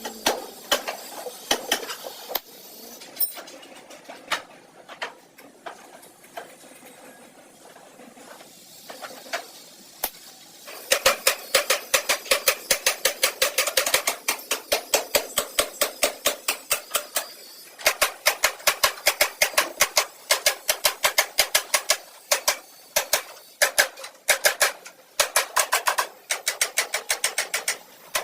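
Rapid, evenly spaced taps on metal, about five a second, starting about eleven seconds in and stopping briefly a few times; before that, a few scattered, quieter knocks.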